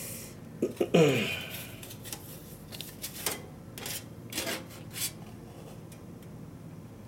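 Metal fire pit parts being handled and fitted together: a loud scrape with a falling metallic note about a second in, then a string of light clicks and taps.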